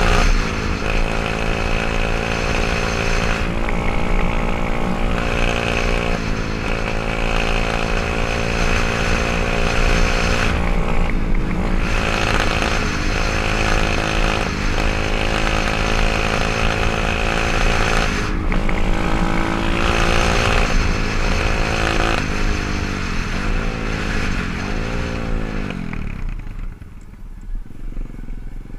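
124cc pit bike's single-cylinder four-stroke engine running, its pitch stepping up and down repeatedly with the throttle, then dropping and swooping up and down before easing off near the end.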